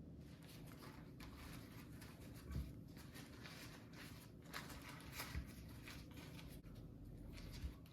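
Faint rustling and handling noises with a few soft knocks, about two and a half seconds in, around five seconds in, and near the end, over a low steady room hum.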